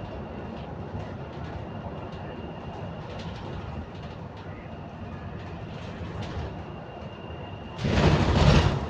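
Steady running rumble inside a moving London bus, with a faint thin high whine over it. Near the end comes a short, loud rush of noise lasting about a second.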